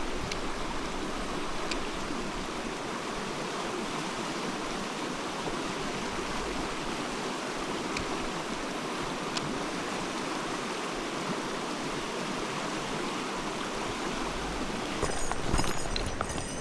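Mountain stream running steadily, a continuous wash of water, with a few faint ticks.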